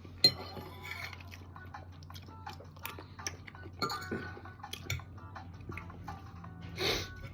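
Cutlery clinking and scraping on a plate during eating, a string of small scattered clicks and brief rings, with a short burst of noise near the end.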